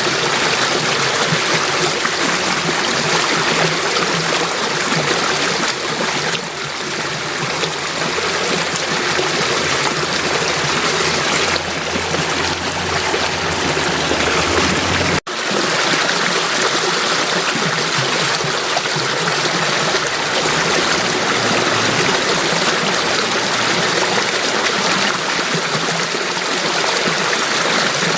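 Water of a stream flowing and splashing in a steady, full rush. About halfway through the sound drops out for an instant and resumes.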